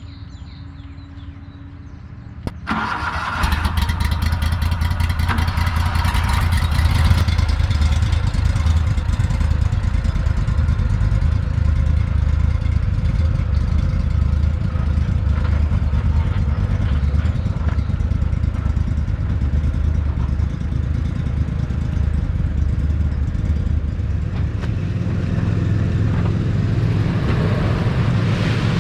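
An engine starts with a sudden jump in level about two and a half seconds in, then runs steadily with a strong low hum.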